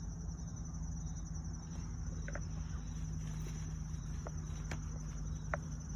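Steady high-pitched insect trilling, with a low steady hum beneath it and a few short faint clicks.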